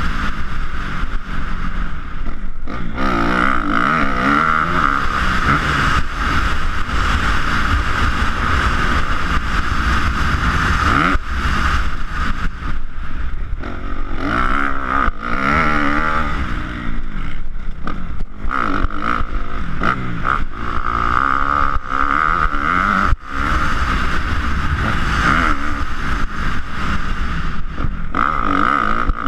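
Motocross dirt bike engine revving up and down repeatedly as it is ridden, its pitch rising and falling over and over.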